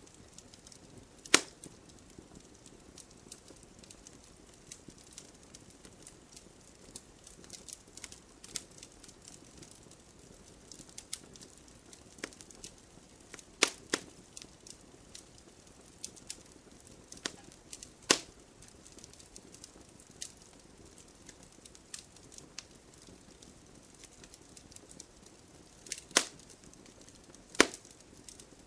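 Wood fire crackling in a fireplace: scattered small ticks and snaps over a faint low hiss, with a few much louder sharp pops, the biggest near the start, about halfway through and twice near the end.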